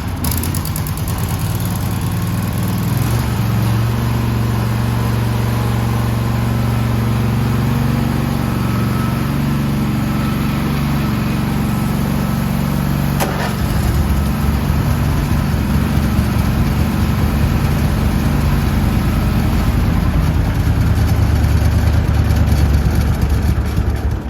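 Craftsman riding lawn mower's engine, just started, running steadily for about twenty seconds with a couple of shifts in speed, then shut off abruptly near the end.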